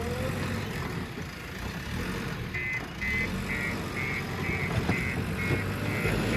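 Heavy diesel machinery engine running steadily, with a reversing alarm starting to beep about two and a half seconds in, a little over two beeps a second.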